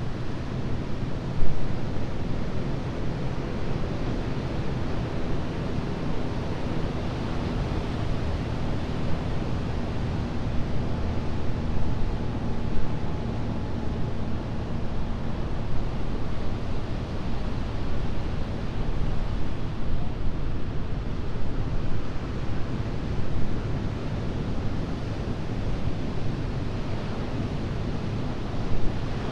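Atlantic ocean surf breaking and washing ashore: a continuous, rumbling wash of waves that swells and eases irregularly.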